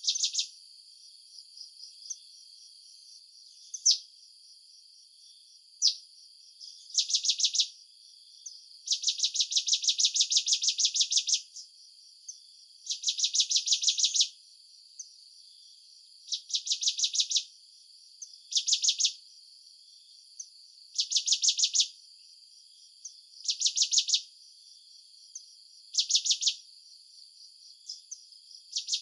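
Insects calling: rapid pulsed trills, repeated every two to three seconds and lasting from half a second to about two and a half seconds, over a steady high insect drone.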